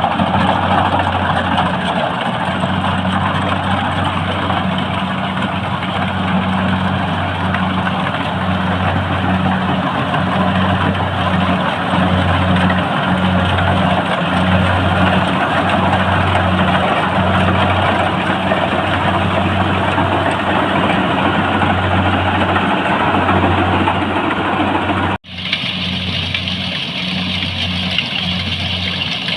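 Tractor engine running steadily as it is driven, a continuous low hum with a rough mechanical noise over it. About 25 seconds in, the sound cuts out for an instant and resumes.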